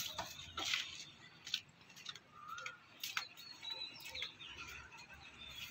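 A few short bird chirps over faint outdoor ambience, with scattered light clicks and taps about a second apart.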